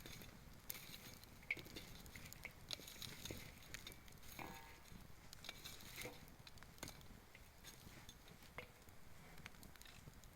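Wood campfire crackling softly, with irregular small pops and snaps and a few sharper ones.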